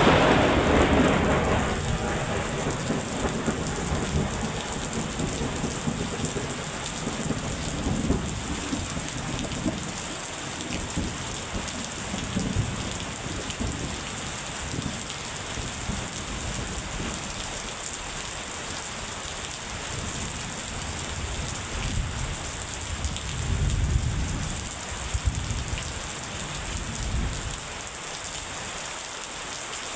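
Steady heavy rain falling, with thunder: a thunderclap dies away at the start, and low rolls of thunder rumble a few more times, most strongly a little past the middle and near the end.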